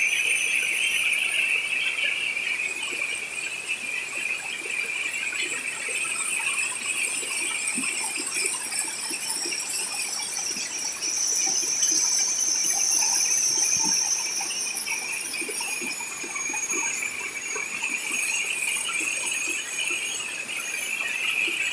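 Steady insect chorus, a continuous high shrill buzzing, with scattered faint ticks beneath it.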